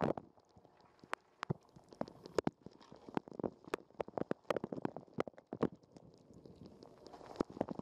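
Dishwasher wash cycle heard from inside a waterproof camera housing: water spraying and sloshing in uneven bursts, with many sharp taps of water striking the housing.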